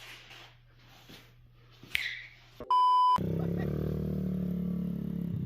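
A short, loud electronic beep at a single pitch, lasting about half a second, about two and a half seconds in. A steady low hum follows it.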